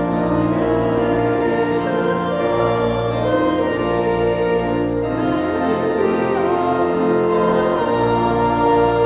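Church music: sustained organ chords with voices singing.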